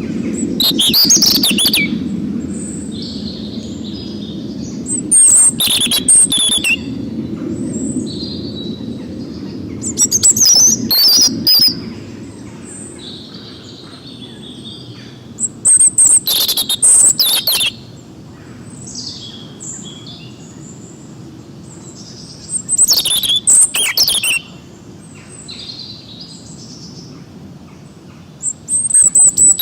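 Forest songbirds chirping and singing: about six loud, fast phrases, each a second or two long and about five seconds apart, with softer calls between them over a low steady rumble.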